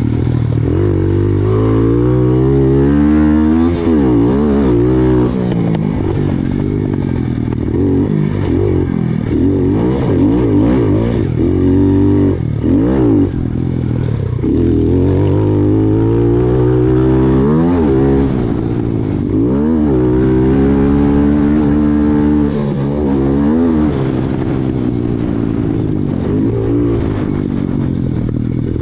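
Pit bike engine revving up and down over and over, its pitch climbing with each burst of throttle and dropping sharply between them.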